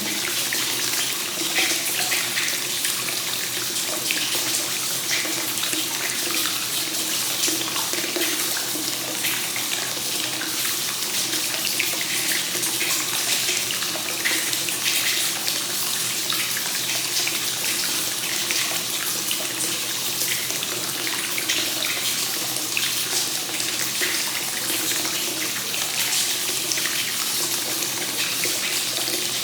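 Hot spring water flowing steadily into an onsen bath from a free-flowing source (kakenagashi): a continuous, even splashing with no breaks.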